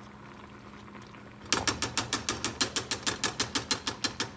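A cooking spoon knocking and scraping against a nonstick skillet in quick, even stirring strokes, about eight a second, starting about a second and a half in, as tomato paste is worked into a cream sauce. A faint steady hum sits underneath.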